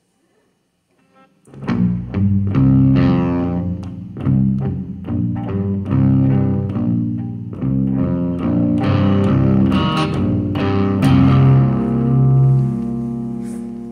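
Guitar music, plucked notes over a low bass, starting after a second and a half of silence; the last notes are held and fade out near the end.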